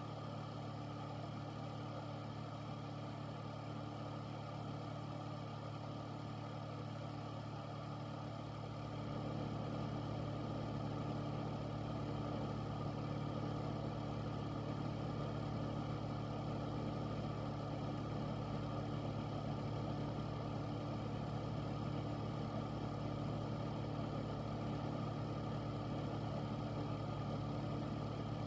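Air filter fan running steadily: a constant low hum over a rush of moving air. About nine seconds in it becomes slightly louder, with more low rumble.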